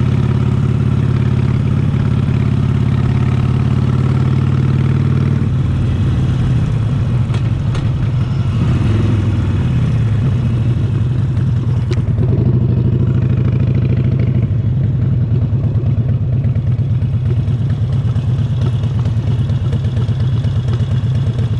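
Harley-Davidson Sportster 1200's air-cooled Evolution V-twin running under way on a ride, loud and steady. The engine note changes about five seconds in, then dips and climbs again a few seconds later as the throttle is worked.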